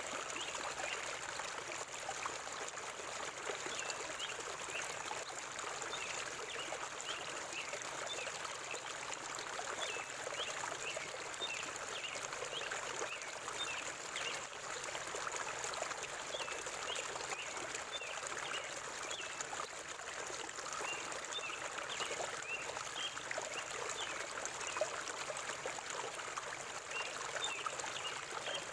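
River water flowing steadily, with a continuous babbling and trickling.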